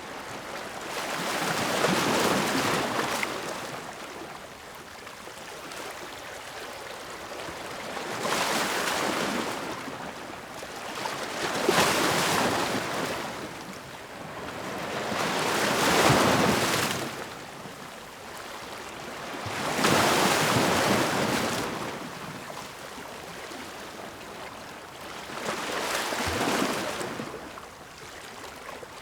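Ocean waves breaking on the shore, one surge about every four seconds, each swelling up and washing back before the next.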